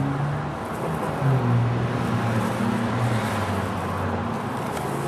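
A motor vehicle's engine running: a low hum that shifts in pitch a few times, over a steady rushing noise.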